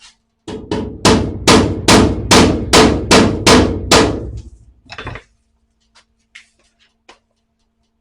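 Hammer blows on the steel sheet-metal patch of a car's spare wheel well, about eight strikes in quick even succession, each ringing briefly, as the new panel is knocked into shape around its tack welds.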